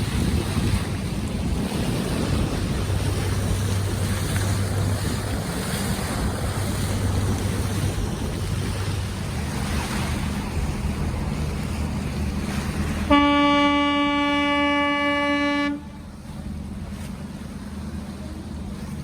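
Wind and water noise with a low engine hum aboard a cruise boat, then about 13 seconds in a boat's horn sounds one long blast of nearly three seconds at a steady pitch, the loudest sound here.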